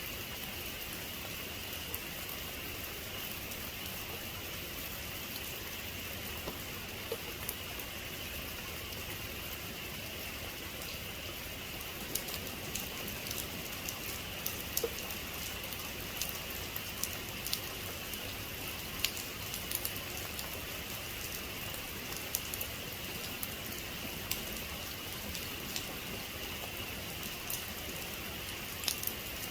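Steady heavy rain falling, an even hiss with scattered sharp drop hits, which grow more frequent about halfway through.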